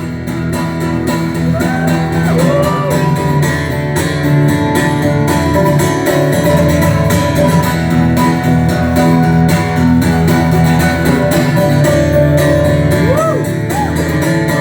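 Live rock band playing an instrumental break, guitar to the fore over steady drums, with a few bent notes about two seconds in and again near the end.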